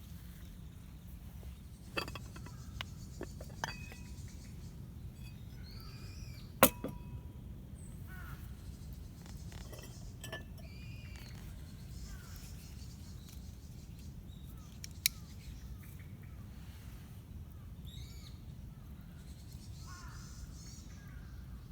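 Birds chirping now and then over a steady low rumble, with a few sharp clicks or pops; the loudest click comes about a third of the way in.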